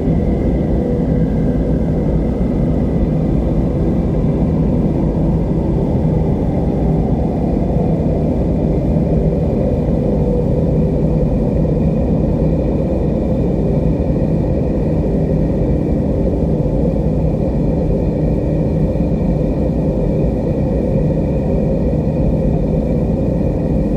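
Steady, deep wind noise with no gusts or breaks, and faint high steady tones above it.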